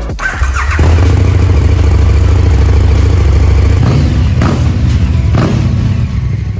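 A KTM 1290 Super Duke GT's V-twin engine starts about a second in and idles with a steady, loud rumble. The throttle is blipped twice near the end.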